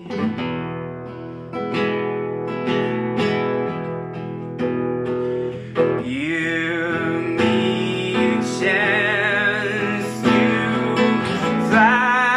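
Acoustic guitar strumming chords in an instrumental break of a pop-folk song. About halfway through, a sustained melody line with vibrato joins above the guitar.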